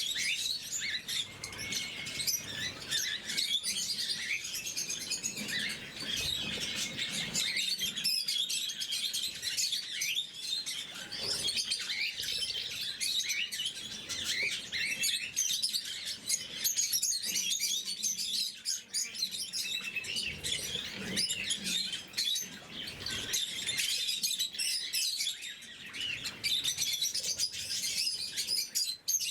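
A flock of lovebirds chirping and squeaking continuously, many short high calls overlapping, with a few soft knocks.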